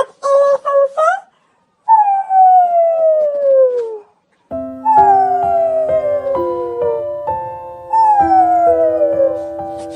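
Canine howling: a few short yelps at the start, then three long howls that each fall in pitch. Simple piano music comes in about halfway through.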